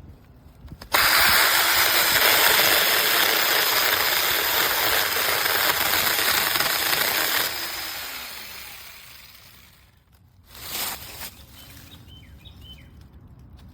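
Battery-powered mini chainsaw running at full speed with a high electric whine, starting abruptly about a second in, then winding down and fading about two thirds of the way through. A brief burst of the same noise follows near the end.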